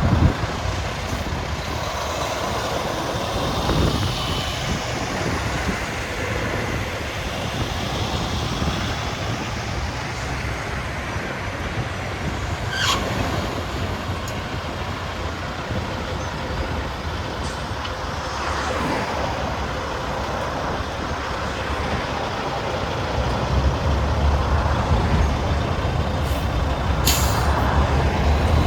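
Tractor-trailer trucks running, with a steady rumble of engines and road noise that grows louder over the last few seconds. There is a brief sharp hiss near the end.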